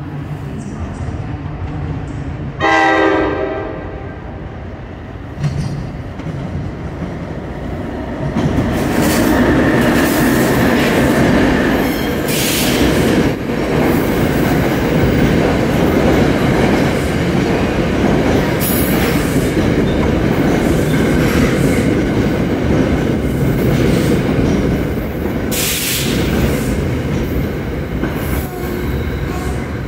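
A train horn sounds one short blast, then a train runs by for about twenty seconds with a loud rumble and clatter of its wheels on the rails.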